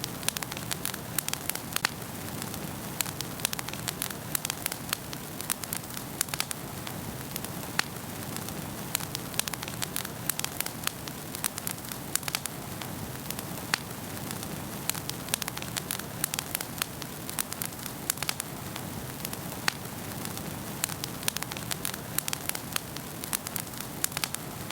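Wood fire crackling in a fireplace: many sharp, irregular pops and snaps, several a second, over a steady low rush of flames.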